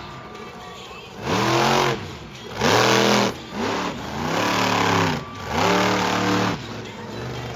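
Monster truck engine revving hard in repeated blips, its pitch rising and falling about five times, roughly once a second.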